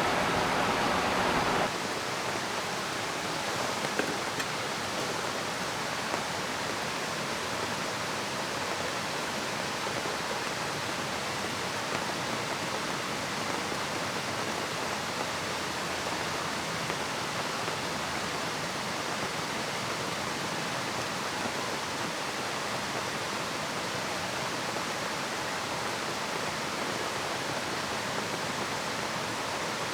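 Steady rushing of a river and falling rain. A louder layer of the noise drops away about two seconds in, leaving an even hiss with a few faint drip-like ticks.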